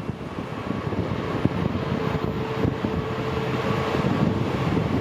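A train approaching, its rumble and wheel clatter growing steadily louder, with a steady whine setting in about a second and a half in.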